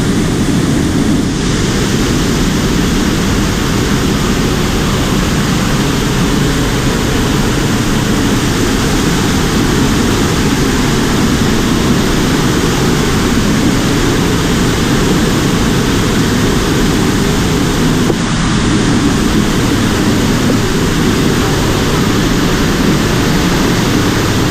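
Waterfall roaring: a loud, steady rush of falling water with no let-up.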